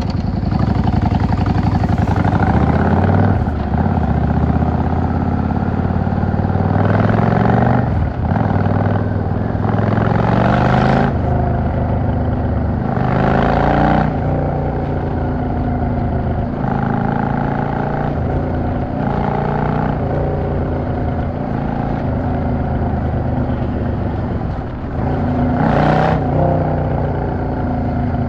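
Yamaha XVS 650 V-Star's air-cooled V-twin engine pulling through the gears in city riding: its pitch climbs under throttle and drops at each shift or roll-off, several times over.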